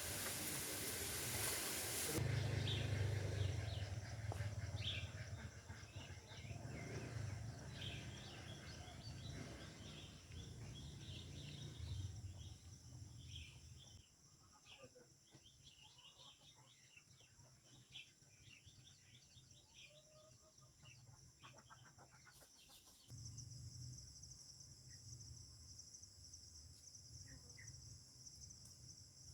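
Wind rushing and rumbling on the microphone, loudest in the first few seconds and dying down about halfway through, over many short bird chirps and a steady high insect drone that grows louder near the end.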